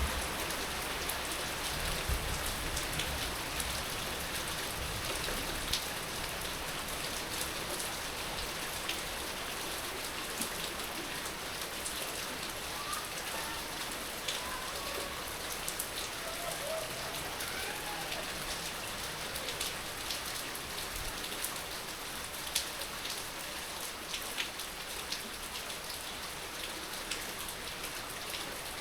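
Heavy rain falling steadily: a dense, even hiss with many individual drops ticking sharply on a hard surface nearby.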